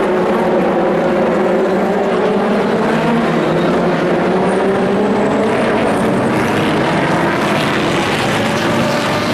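Race car engines running on the circuit: a loud, steady engine drone whose pitch sinks slowly and then climbs again near the end.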